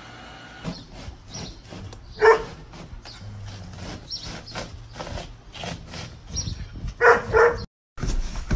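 Dog barking: one bark about two seconds in and two quick barks near the end, with scattered clicks and taps between.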